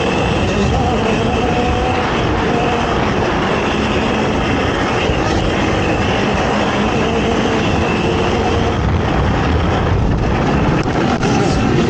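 Race ATV engine running hard and steady, loud and rough, with no let-up.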